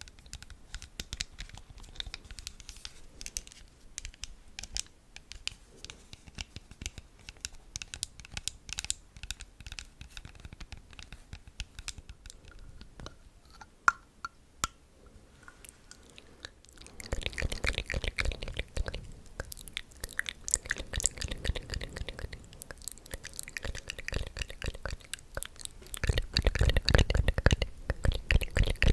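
Close-miked ASMR trigger sounds: small clicks and crackles at first. About seventeen seconds in they turn into denser, louder crackling and rustling, loudest near the end.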